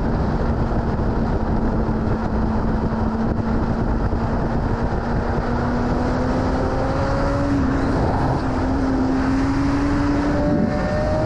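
BMW S1000RR's inline-four engine pulling steadily at speed, its pitch climbing slowly, under heavy wind rush on the microphone. The engine note breaks briefly about eight seconds in and again near the end.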